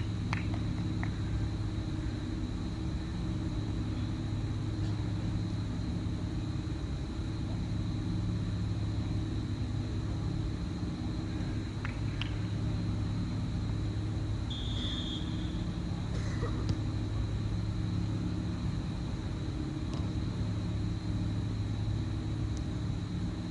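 A steady low rumble, with a brief high tone about fifteen seconds in and a few faint clicks.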